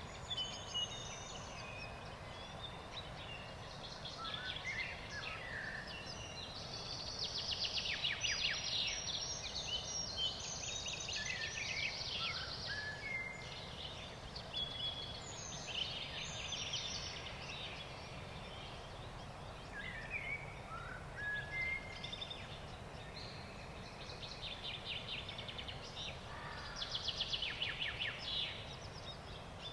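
Several songbirds singing and trilling, busiest about a quarter of the way in and again near the end, over a steady low background noise.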